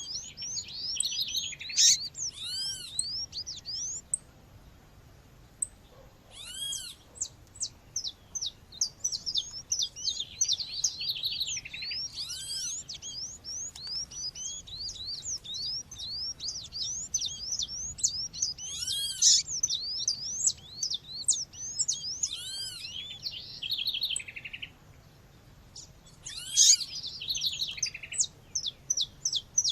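A female Sporophila seedeater calling: dense runs of short, quick chirps, broken by louder arched calls every few seconds, with birdsong in the background. The calling pauses briefly twice.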